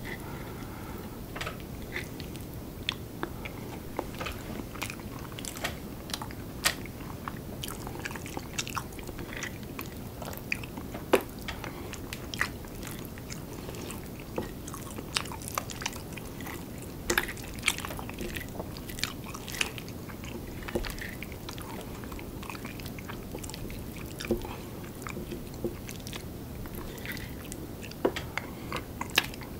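Close-miked chewing of curry rice, with many scattered sharp clicks and mouth sounds over a steady low background hum.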